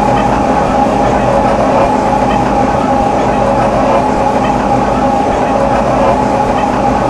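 MTR M-Train electric multiple unit running at steady speed between stations, heard from on board: a continuous rumble of wheels on rail with a constant whine from the train's motors.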